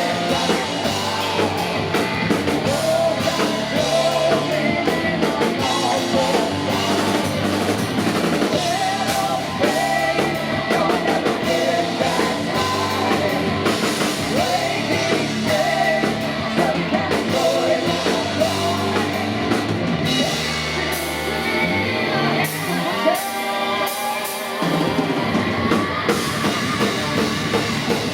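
A heavy metal band playing live, with a drum kit, guitars and a singer. Near the end the bass and drums drop out for a couple of seconds under a sliding pitch line, then the full band comes back in.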